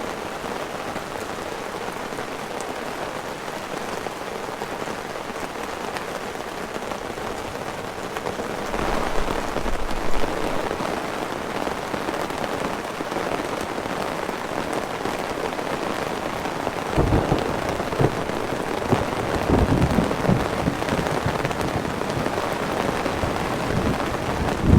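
Heavy downpour drumming steadily on a tent, with deep rolls of thunder rumbling in about a third of the way through and again for the last several seconds.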